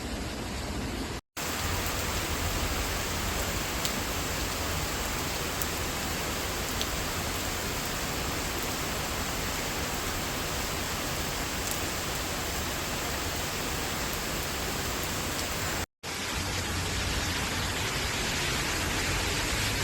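Steady rain falling on leaves, an even hiss with no pauses in the rainfall. The sound cuts out completely for an instant twice, about a second in and near the end, at splices between recordings.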